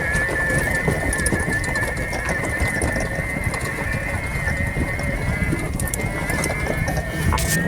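ATV engine running at a steady high pitch, with a constant whine held throughout over low rumbling.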